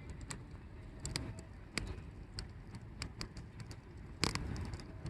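Wood fire crackling in an 18-litre square-can fire pit: scattered sharp pops over a steady low rumble, with a cluster of pops about four seconds in.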